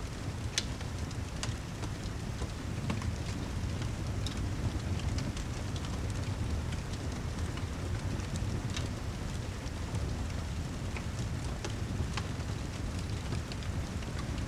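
Steady rain and fireplace ambience: an even wash of rainfall over a low rumble, with scattered sharp crackles and taps throughout.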